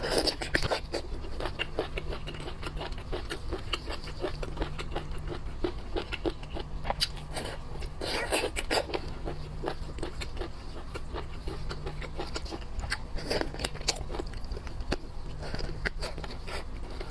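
Close-up eating sounds of spicy boiled seafood: chewing, crunching and scraping with many sharp clicks. The clicks and crunches come in denser flurries at the start, about 8 seconds in and about 13 seconds in, over a steady low hum.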